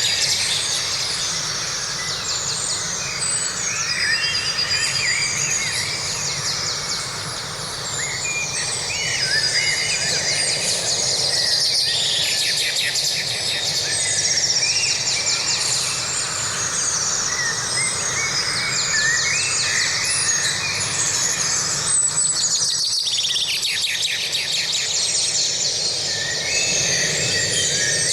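Forest bird chorus: several birds singing and chirping in overlapping short phrases over a steady background hiss, with a brief dip in the sound near the end.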